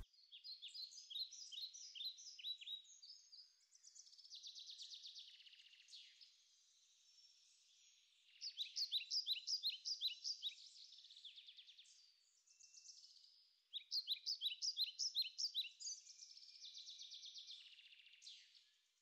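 Songbirds singing quietly: runs of quick downward-sweeping chirps, about four a second, alternating with rapid high trills, with no other sound beneath them.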